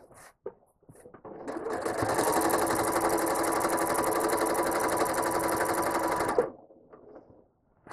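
Home sewing machine stitching through a quilt with a ruler foot: it starts up about a second in, comes up to a steady, fast needle rhythm, and stops abruptly near the end.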